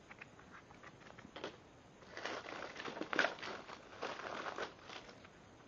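Crinkling, crackling rustle of plastic packaging being handled, starting about two seconds in after a few light clicks and stopping shortly before the end.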